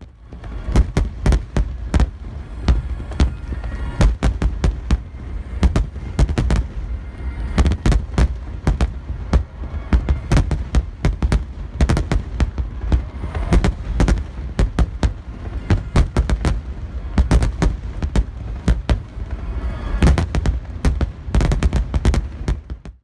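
Aerial fireworks shells bursting in a dense, continuous barrage, several sharp booms a second with deep low rumble between them.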